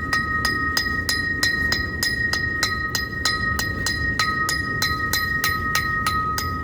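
Mechanical railroad crossing bell ringing with rapid, even strokes, about three a second, each stroke ringing on in two clear tones, the sign that the crossing warning is active for an approaching train. A low rumble runs underneath.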